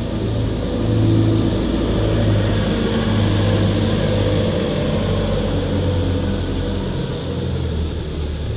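Steady, loud low drone of running machinery, with a hum that wavers in strength and drops slightly in pitch near the end.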